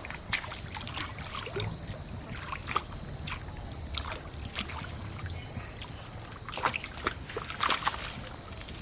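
Pond water sloshing with scattered small splashes, a cluster of sharper splashes about seven seconds in.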